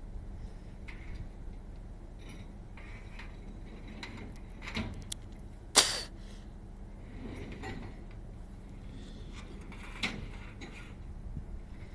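Scattered clicks and knocks of hard parts being handled, with one sharp, loud click a little before the middle and another near the end, over a low steady hum.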